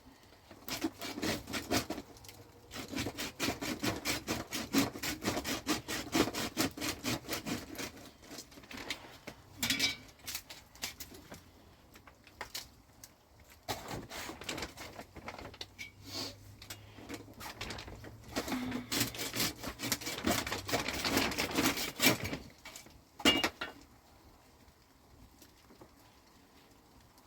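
Rapid, rhythmic scraping strokes in two long runs, with a few separate strokes between them and one sharp knock near the end.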